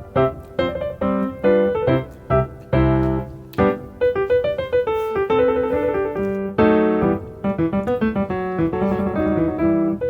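Background piano music: quick, bright melody with many short notes over a steady accompaniment.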